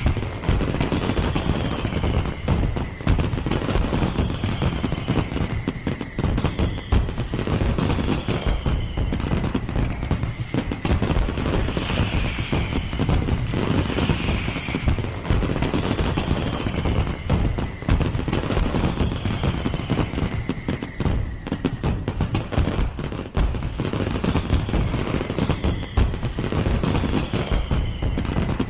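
Fireworks display: continuous rapid crackling and banging volleys of firework bursts.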